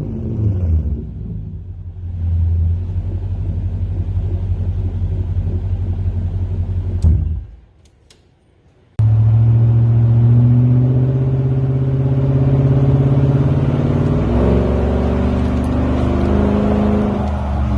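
Toyota Tundra's 5.7-litre iForce V8 running through a Flowmaster Super 10 muffler: a steady, deep exhaust drone. It drops out to near silence for a moment about halfway, then comes back louder, with a small shift in pitch a few seconds later.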